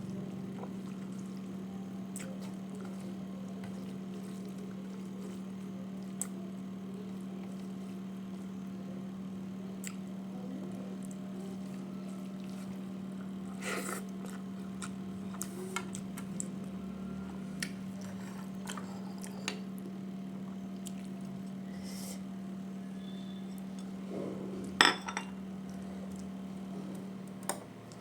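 Eating sounds: occasional short clicks and clinks of a plate and dishes, the loudest about 25 seconds in, over a steady low hum.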